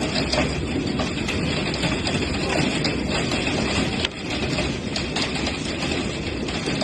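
Hailstorm: a dense, steady clatter of countless hailstones striking.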